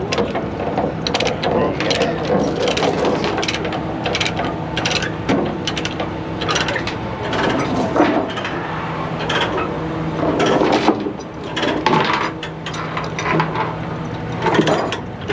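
Ratchet chain binder being cranked to tighten a tie-down chain, a fast run of ratchet clicks that keeps going, with an engine running steadily underneath.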